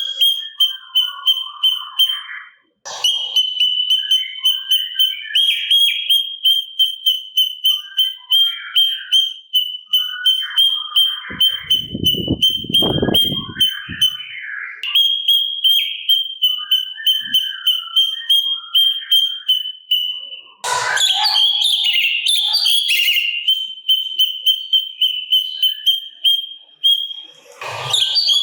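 Cucak cungkok singing a fast run of high, rapidly repeated notes, about three a second. Shorter chirps and whistles sit under it, with a brief low-pitched burst about halfway through and louder, rougher calls about three quarters of the way in and again near the end.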